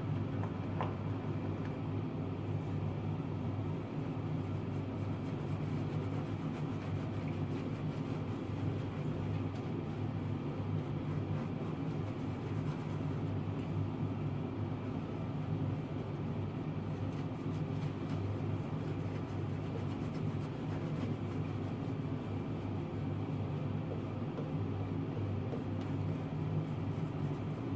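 Steady low mechanical hum, even and unbroken.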